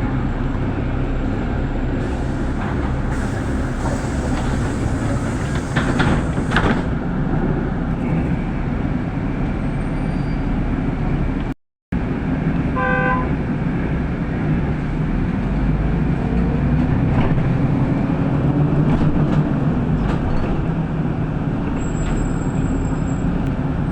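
Inside a city bus on the move: steady low rumble and road noise with rattling of the body, a brief dropout in the sound just before halfway, and a short series of electronic beeps soon after.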